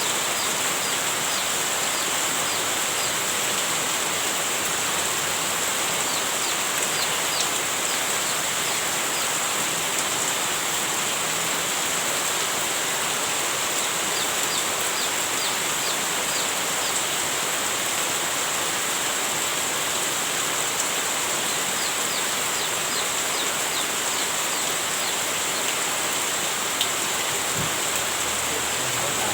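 Heavy rain falling steadily, an even hiss with no letup. Runs of short, faint, high chirps come and go over it several times.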